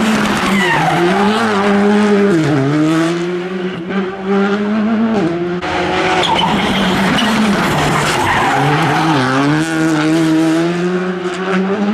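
Rally car engine pulling hard at high revs, its pitch dropping and climbing again several times as it changes gear and lifts off between bursts of throttle.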